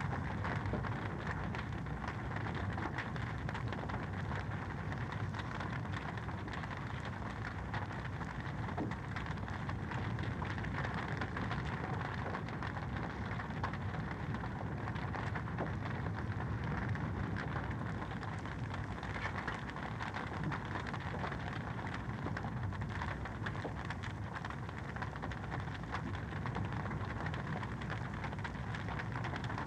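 Wood fire in a fireplace crackling steadily: a dense, even run of small crackles and pops with no pauses.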